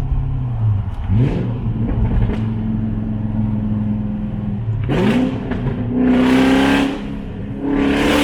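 BMW E34 540i V8 with its muffler and resonator removed (straight pipe after high-flow cats) revving hard in a tunnel. The revs climb about a second in and again about five seconds in, with the loudest bursts around six and eight seconds. It is way too loud.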